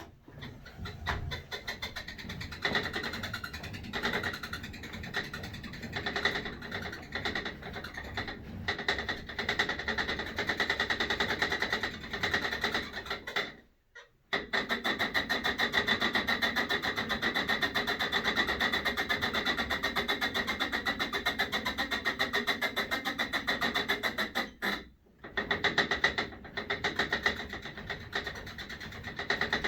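Sole E25 elliptical trainer creaking loudly as it runs, a fast grating rasp with a steady high tone through it that breaks off briefly twice. The noise persists after the pivots were regreased and the rails lubed, and it appears with the flywheel turning on its own, so the owner believes it comes from inside the flywheel.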